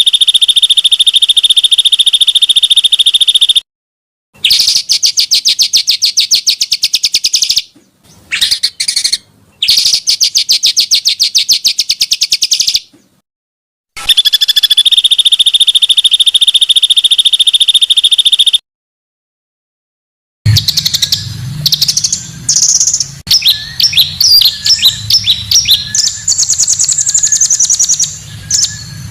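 Edited montage of small songbird recordings: long, rapid, buzzy trills (the 'long roll' of Indonesian bird-song training audio) that stop abruptly between short silent gaps, then from about twenty seconds in a busier run of varied chirps and twittering over a low hum.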